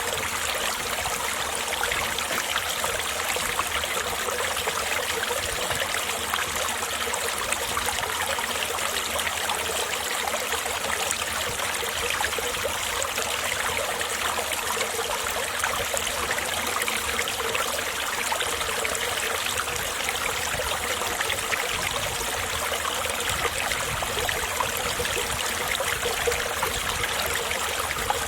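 Winter mountain stream flowing over rocks: a steady, unbroken rush and trickle of water.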